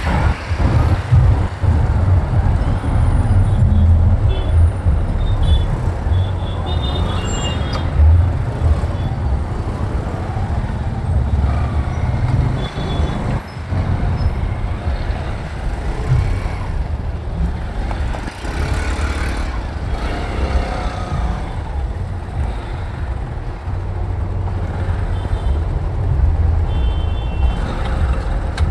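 Riding a motorcycle through city traffic: a steady, heavy wind rumble on the microphone over engine and road noise, with a few short high beeps from other vehicles about a few seconds in and again near the end.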